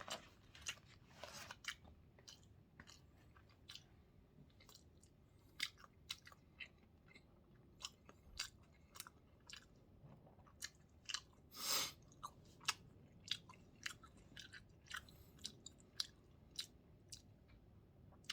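Close-miked mouth sounds of a person chewing food: irregular short, sharp clicks. There is one louder, longer sound about twelve seconds in.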